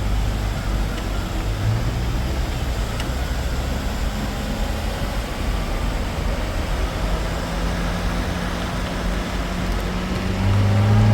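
Steady low drone of a motor vehicle's engine running, getting louder and slightly higher near the end.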